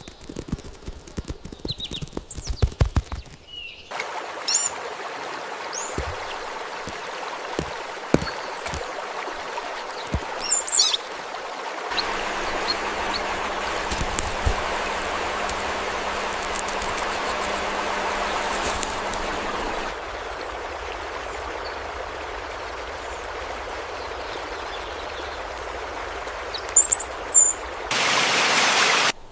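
Steady rush of running water, a stream, with short high bird chirps now and then. A few sharp clicks in the first seconds, and the water sound changes level abruptly a few times.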